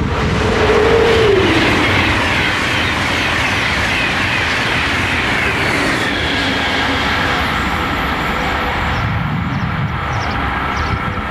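High-speed train passing at speed: a loud steady rushing noise that is loudest about a second in. A tone drops in pitch as the train goes by, and higher whines slide downward over the next few seconds while the rush carries on.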